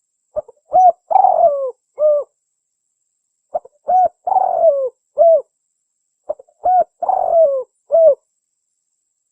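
Spotted dove (tekukur) cooing its phrase three times, about every three seconds. Each phrase is a couple of short notes, a longer falling coo and a short final note.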